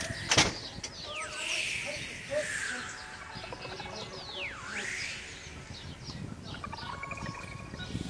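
Bird calls: long falling whistled notes that come again and again, with some rising ones between them, and one sharp click about half a second in.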